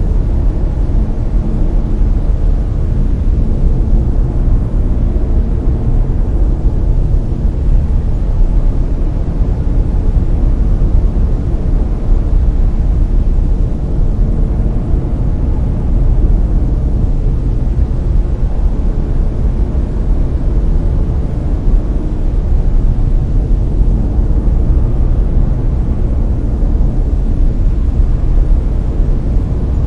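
Synthetic layered brown noise: a steady, deep rushing hiss, heaviest in the bass and fading toward the treble, with no tones or events.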